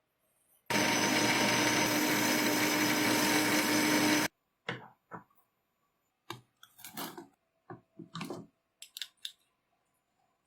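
A power tool runs steadily for about three and a half seconds with a steady hum under its noise, then cuts off sharply. Scattered light clicks and knocks follow.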